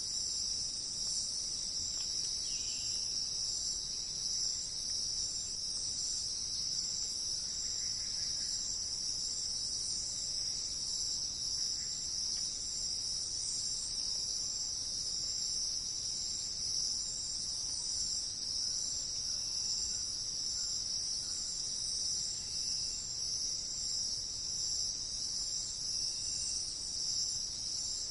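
Steady, unbroken high-pitched insect chorus, with a few faint bird chirps here and there.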